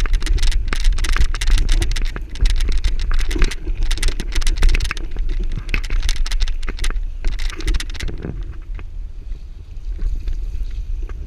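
Riding a bicycle: wind rumbling on the microphone under a dense clatter of rattles and clicks, which eases off about eight seconds in.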